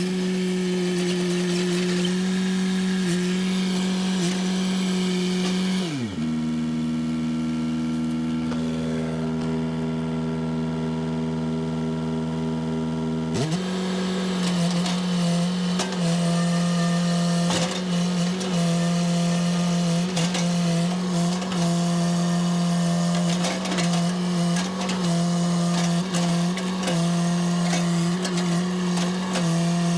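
Two-stroke chainsaw running at full throttle. About six seconds in it drops to a steady idle, and after about seven seconds it is revved back up to full throttle.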